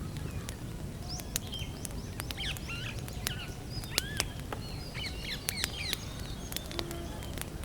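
Wood campfire crackling, with frequent sharp pops over a low steady rumble. Small birds chirp in short, quickly rising and falling calls.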